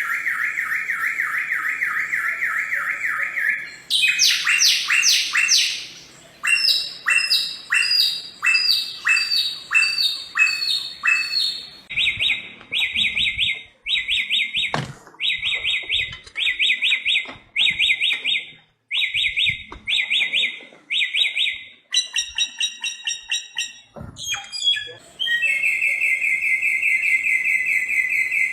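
Bare-throated whistler (samyong) singing: long runs of rapidly repeated clear notes. It switches abruptly to a different phrase type every few seconds, in the varied, many-voiced song this species is known for.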